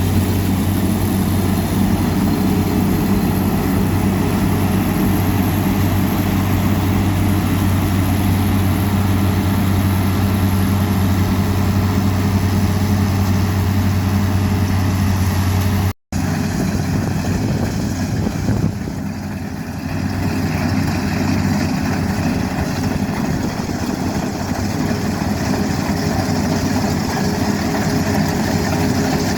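Combine harvester's diesel engine running steadily with a low, even hum. The sound breaks off for an instant about halfway through, then carries on.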